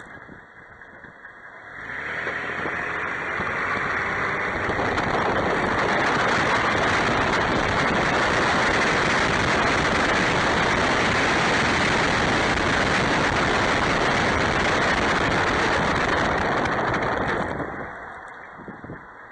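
Vehicle pulling away from a stop. Steady road and engine noise builds about two seconds in and holds, then eases off near the end as the vehicle slows.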